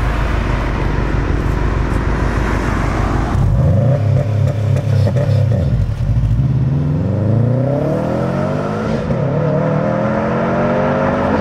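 2015 Subaru WRX STI's turbocharged 2.5-litre flat-four through an Xforce Varex exhaust, on a botched launch-control start. It runs loudly at high revs, settles to a steady note about three and a half seconds in, then accelerates away with the pitch rising steadily over the last several seconds.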